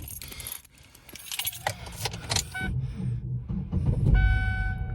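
Car keys jangling and clinking, then about three seconds in a car engine starts and runs with a low rumble; a steady pitched tone comes on near the end.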